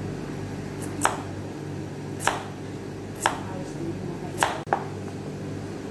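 Knife chopping carrots on a cutting board: five sharp strikes about a second apart, the last two close together.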